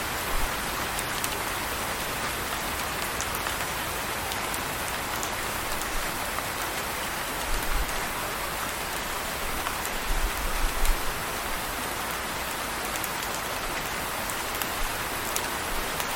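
Steady rain falling on a surface, with scattered faint drop ticks and a few brief low rumbles near the middle.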